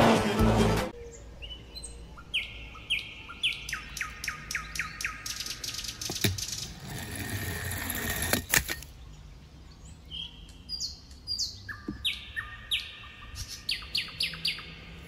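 A small bird chirping in quick runs of short, clear chirps, with a couple of sharp knocks about six and eight seconds in. Film music cuts off about a second in.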